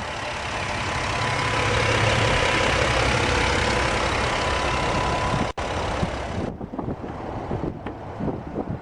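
The 2011 Jeep Wrangler's 3.8-liter V6 idling steadily, heard close up. About five and a half seconds in the sound cuts off abruptly and comes back quieter and duller, with a few scattered clicks and knocks.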